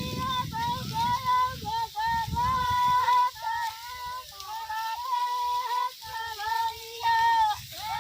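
High-pitched women's voices singing a Marwari folk song unaccompanied, a continuous melody with sliding, ornamented notes.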